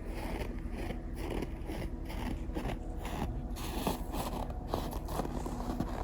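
Footsteps crunching in packed snow, about two steps a second, over a faint steady hum.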